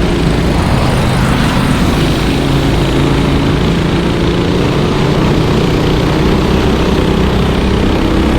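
Racing kart engines running on the track, a steady, loud drone with pitch shifting slightly as the karts go round.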